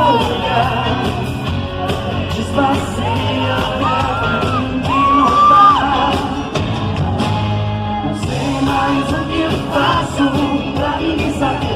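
Live pop band playing with held sung notes, heard in a large hall, with audience members shouting and whooping.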